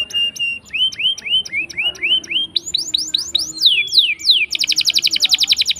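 Domestic canary singing a long rolling song: a held whistle, then a run of rising whistled notes about four a second, steeper swooping notes, and a very fast trill near the end.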